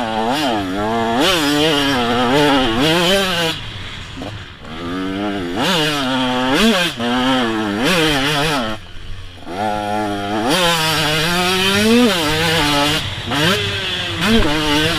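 KTM 125 SX two-stroke single-cylinder motocross bike ridden hard, the engine note rising and falling again and again as the throttle is worked and gears are changed. The throttle shuts off briefly twice, about four seconds in and again about nine seconds in.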